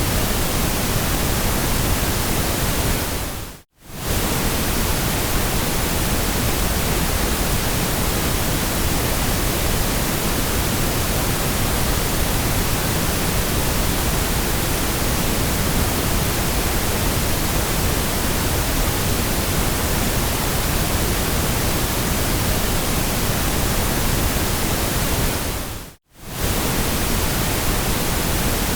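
Steady synthetic white noise, an even hiss across all pitches, that briefly fades out to silence and straight back in twice: about four seconds in and again near the end.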